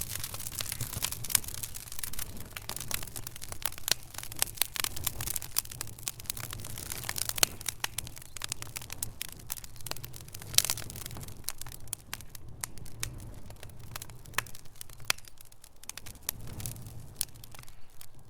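Wood fire crackling in a fireplace: a dense stream of sharp pops and snaps over a low rumble of the flames. The crackling is thickest in the first half and thins out after about twelve seconds, with a few louder pops standing out.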